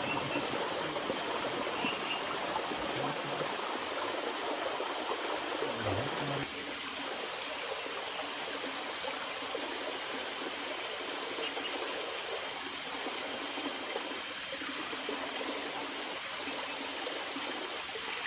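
Steady rushing water, an even hiss with no rhythm, with a few faint low thumps in the first six seconds and a slight drop in level about six and a half seconds in.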